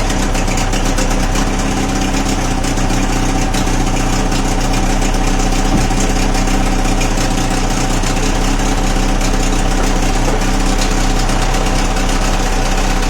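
Old Mariner 25 hp two-stroke outboard motor idling steadily, left to run on its own at an even pace.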